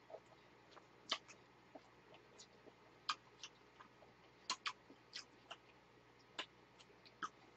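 Faint wet mouth clicks and smacks of people chewing soft strawberry roll cake, sponge and cream, at irregular intervals.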